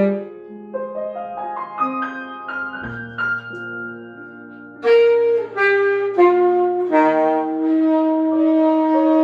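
Jazz duet of piano and saxophone. The piano plays alone for the first few seconds, then the saxophone comes back in about five seconds in with a short phrase that ends on a long held note.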